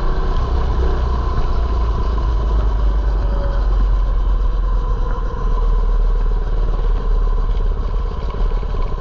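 Mini bike's small engine running steadily as the bike is ridden, with a heavy low rumble throughout.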